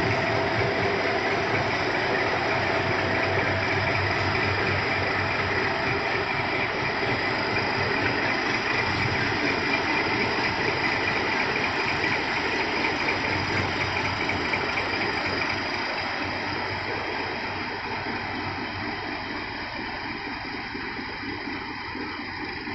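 Steady engine and running noise of a train, easing off slowly over the last several seconds.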